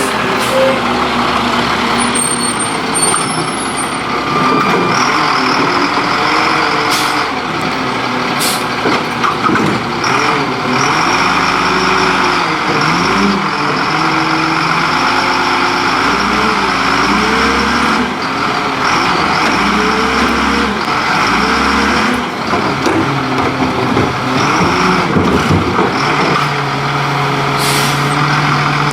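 Leach Curbtender garbage truck's engine running and revving up and down repeatedly, with several short hisses of air brakes.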